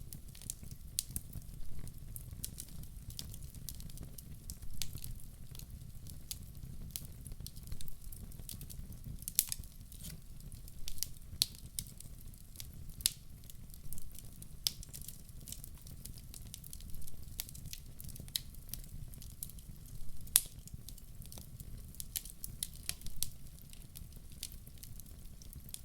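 Fire burning in a fireplace, crackling and popping irregularly over a steady low rumble, with a few louder pops.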